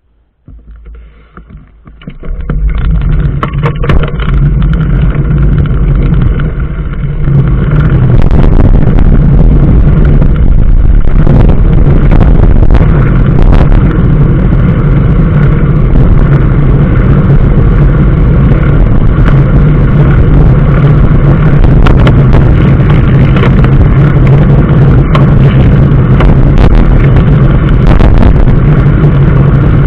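Motor vehicle getting under way: engine and road noise come up about two seconds in and build over several seconds into a loud, steady drone.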